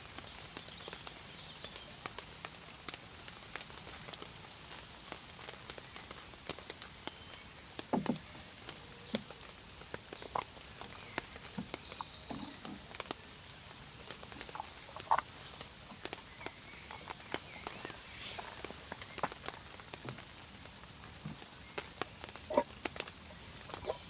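Rain: a steady light hiss with individual drops ticking and plinking irregularly on nearby surfaces.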